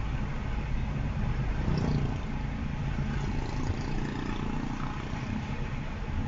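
Steady driving noise of a Honda HR-V e:HEV on the move: a low rumble with an even hiss above it, with no sharp knocks or impacts.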